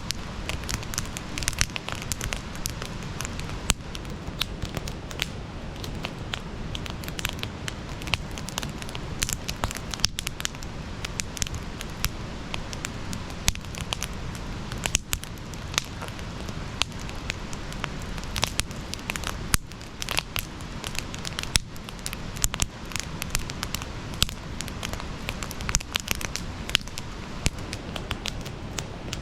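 Campfire burning, crackling with frequent sharp, irregular pops over a steady hiss.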